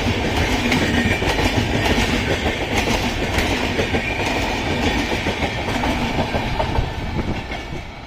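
Express train coaches passing at speed, the wheels clattering rhythmically over the rail joints with a steady rumble. The sound fades over the last second as the tail of the train goes by.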